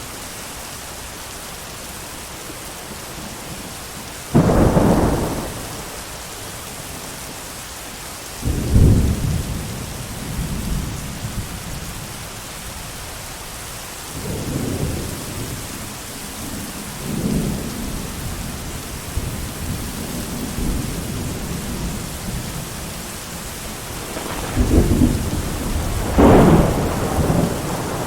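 Steady heavy rain with thunder: a sudden crack about four seconds in and another just after eight seconds, softer rolling rumbles through the middle, and two loud claps near the end.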